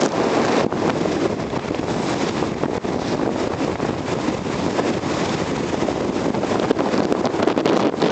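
Strong blizzard wind blowing across the microphone: a steady rushing noise with crackling buffets.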